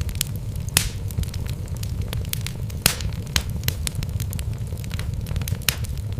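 Wood fire burning in a fireplace: a steady low rumble of flames with irregular crackles and sharp pops from the logs, the loudest pops about a second in and about three seconds in.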